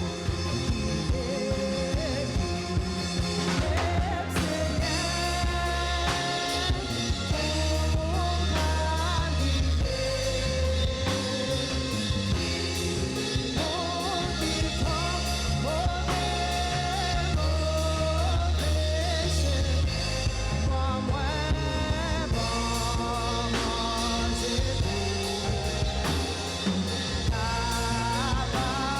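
A church band playing a worship song, with singing over a drum kit and a steady low bass line.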